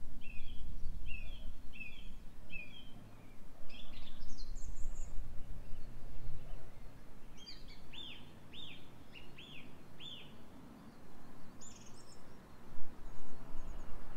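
Small birds chirping and calling. First comes a run of paired chirps, about two a second; then higher calls around four seconds in; then a series of four arching notes about eight seconds in. Under them runs a steady low rumble of wind.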